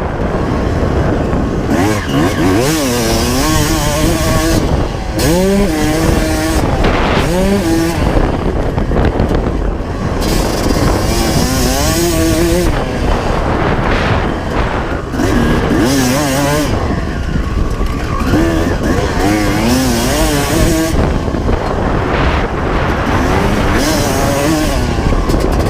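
1995 Honda CR250R's single-cylinder two-stroke engine being ridden hard, its pitch rising and falling over and over as the throttle is worked on and off through the gears.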